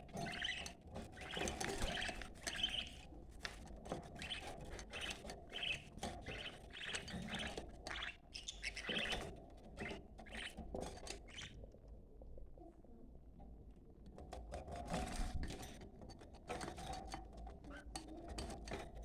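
Budgerigars chattering and warbling in quick chirps. The chirping breaks off for about two seconds past the middle, then starts again.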